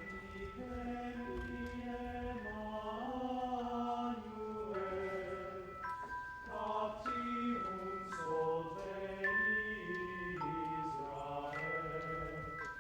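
A choir singing slow held chords that change every second or so, with thin steady high tones sounding above the voices.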